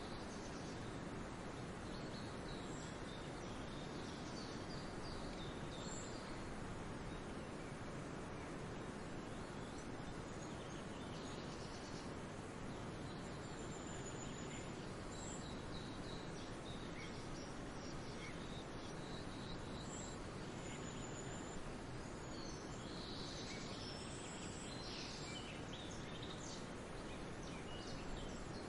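Steady outdoor background hiss with small songbirds chirping and whistling faintly here and there, and a busier flurry of chirps near the end.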